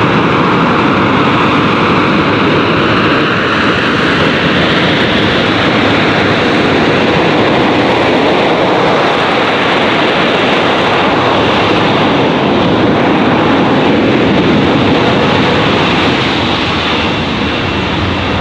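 Jet engine noise from a McDonnell Douglas AV-8B Harrier II's Pegasus turbofan, loud and steady, easing off a little near the end.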